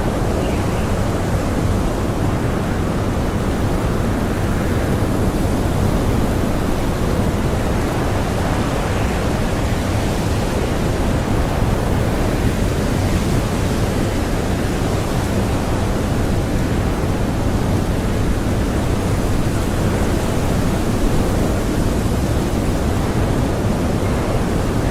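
Strong blizzard wind blowing steadily, a loud, even rush of noise with no letup.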